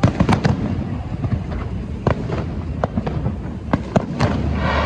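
Fireworks going off: a quick, irregular series of sharp bangs over a low rumble, with a burst of crackling near the end.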